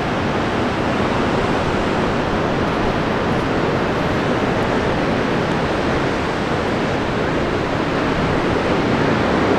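Steady rushing noise of wind and ocean surf, even and unbroken, with no separate wave strokes.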